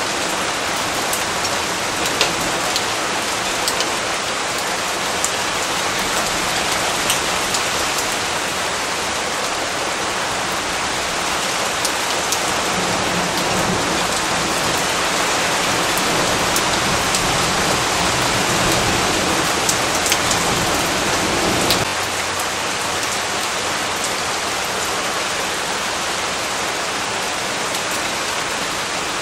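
Steady rain falling on surfaces, an even hiss with scattered sharp drops ticking through it.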